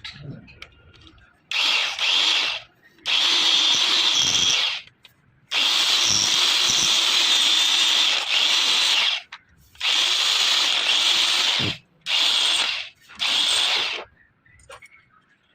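A handheld power tool run in six bursts, each starting and stopping sharply and lasting from about one to nearly four seconds, with a high steady whine over a hissing rush. The longest burst runs in the middle.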